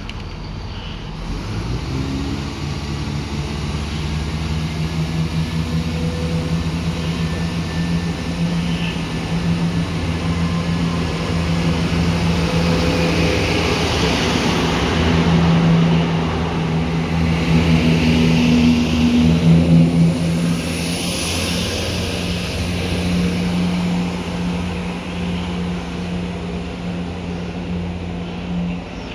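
A train running through the station, its engine drone and rail noise building, loudest about two-thirds of the way through, then easing off.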